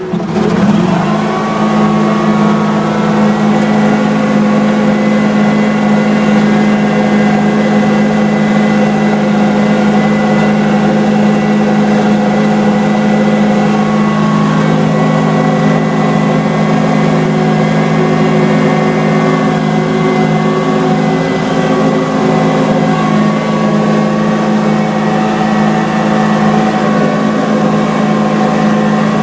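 A vehicle's engine picks up speed as it pulls away, rising in pitch over the first second, then runs at a steady pace while the vehicle travels along the freshly plowed road.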